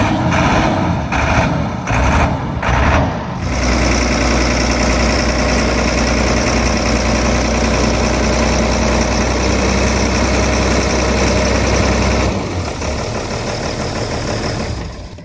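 A heavy vehicle's engine running. It pulses about twice a second for the first few seconds, then settles into a steady low drone that drops off near the end.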